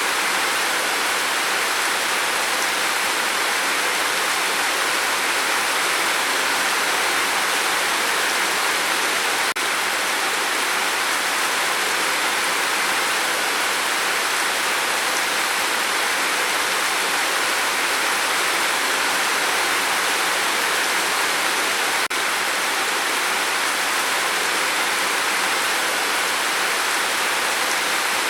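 Steady rain falling, an even hiss that does not change. There is a faint tick about ten seconds in and another about twenty-two seconds in.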